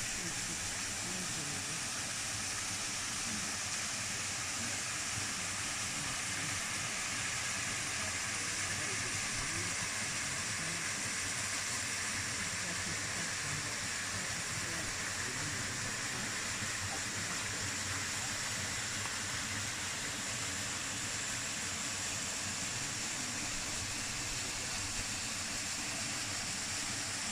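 Waterfall pouring into its pool: a steady rushing of falling water that stays even throughout.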